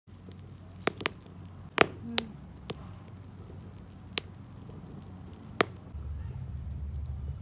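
Scattered sharp clicks and knocks, about seven over a few seconds, over a low steady rumble that grows louder near the end.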